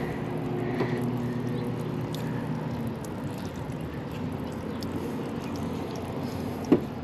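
Rooftop air-conditioning unit running with a steady machine hum. A single sharp knock comes near the end.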